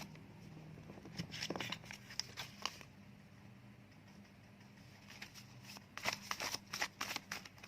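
Divination word cards being shuffled and drawn by hand: two bursts of quick papery flicks and snaps, one about a second in and another around six seconds in.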